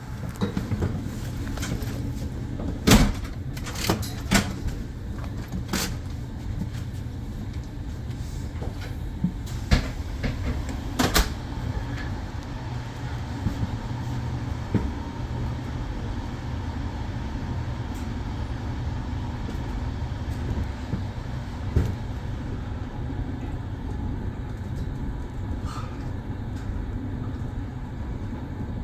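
Running noise of a double-deck sleeper train on the move: a steady low rumble, with a few sharp clicks and knocks in the first dozen seconds, the loudest about three seconds in, and another just past twenty seconds.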